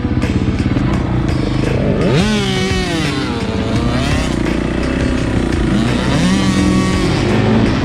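Dirt bike engine running under way, revving up and easing off twice as the rider works the throttle.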